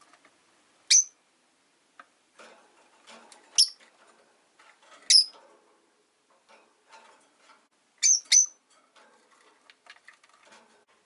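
Rosy-faced lovebirds giving short, sharp, high-pitched chirps: five in all, spaced a second or two apart, the last two in quick succession. Faint clicking and rustling come between the chirps.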